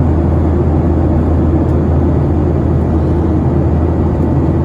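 Boeing 737-900ER cabin noise in flight: a steady, loud roar of the CFM56 jet engines and rushing air, deep and unchanging.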